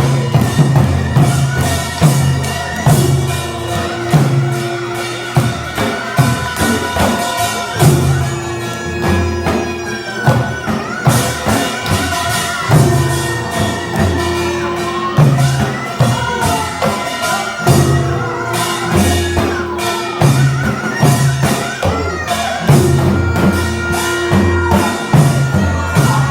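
Korean traditional folk dance music for the deotbaegi dance: drums beating a steady repeating pattern under jangling metal percussion, with a wavering, bending wind-instrument melody above.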